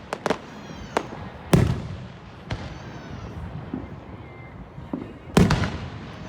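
Fireworks going off: a string of sharp bangs, the loudest about a second and a half in and again near the end, with smaller cracks between.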